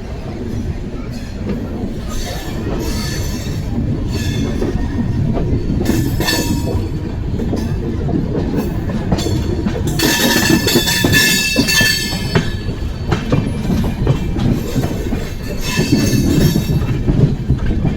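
Amrit Bharat Express train running on the rails: a steady rumble of wheels and coaches, with high-pitched wheel squeal that comes and goes, strongest about ten to twelve seconds in.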